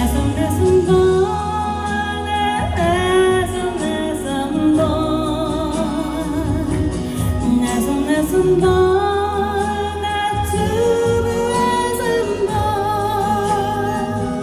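A song with a sung melody line over instrumental accompaniment, running continuously.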